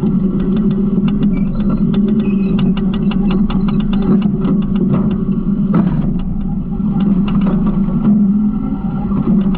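Garbage truck engine running steadily, with frequent short clicks and rattles from the hopper throughout.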